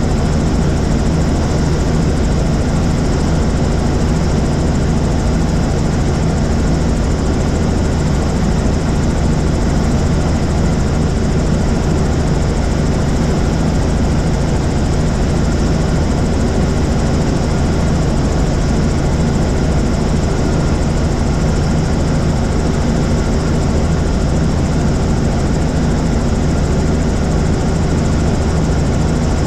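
Helicopter in flight: steady, unchanging engine and rotor noise with a deep hum.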